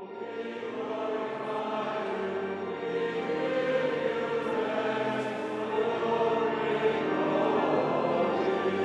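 Choral music: a choir singing long held chords, swelling louder over the first few seconds.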